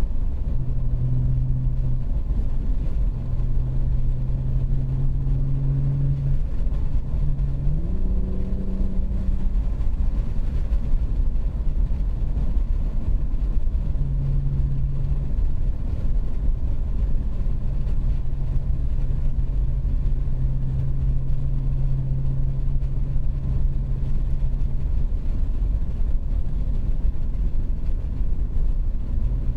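2019 BMW 540i's B58 3.0-litre turbocharged inline-six with its muffler deleted, cruising with a steady low exhaust drone over a deep road rumble. About eight seconds in, the revs climb briefly and then settle back to the steady cruise.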